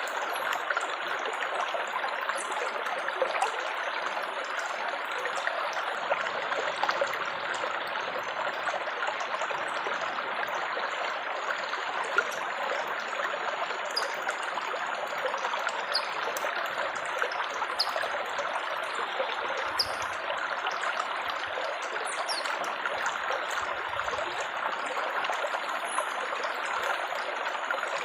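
Running water trickling and babbling steadily, an even splashing flow with no breaks.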